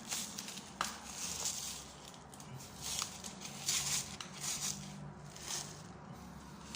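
Irregular scratchy rustling and crinkling from hands working a piece of layered building material, with a couple of sharp clicks.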